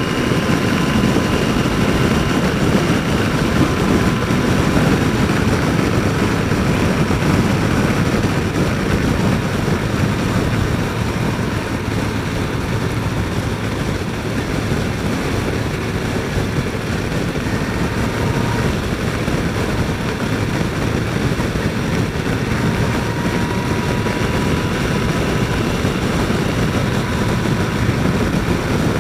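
Yamaha FJR1300 inline-four sport-tourer running at cruising speed, under a steady rush of wind over a helmet microphone. A faint engine whine drifts slightly up and down in pitch.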